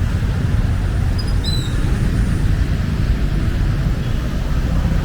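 Busy street ambience with a loud, steady low rumble of traffic. A couple of short high chirps come about one and a half seconds in.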